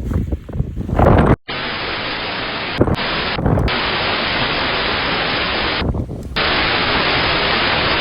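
Wind buffeting the microphone for the first second, then an abrupt cut to a steady hiss of TV-style static that briefly drops out a few times.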